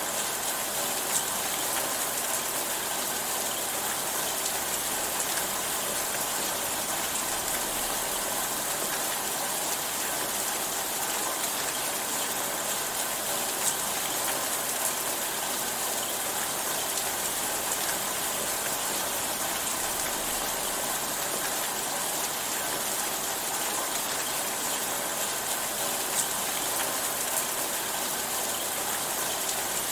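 Steady rainfall, a dense even hiss of drops on a surface, with an occasional sharper drop tick standing out.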